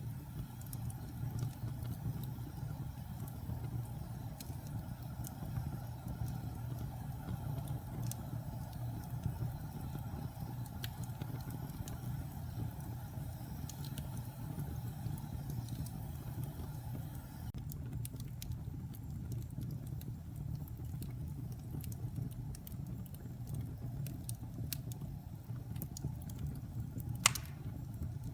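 Wood fire burning in a fireplace: scattered small crackles and pops over a steady low rumble, with one louder pop near the end.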